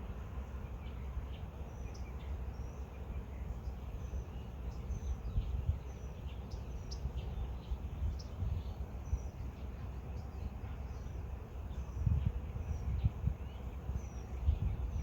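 Several small birds chirping, with short high chirps and quick whistled notes scattered throughout. Underneath is a steady low rumble that grows louder in bursts near the end.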